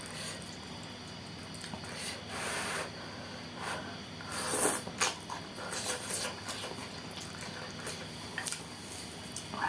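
Close-up eating sounds of saucy noodles with bean sprouts: wet chewing and slurping in short bursts, the loudest about halfway, with a few light clicks.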